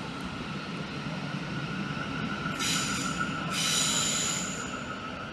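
Electric multiple unit train at the platform, giving a steady whine over a low rumble, with two short bursts of high-pitched hissing noise, about a second each, midway through.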